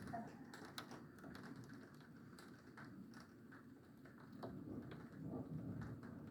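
Scattered raindrops tapping irregularly on a hard surface, over a faint low rumble of the storm.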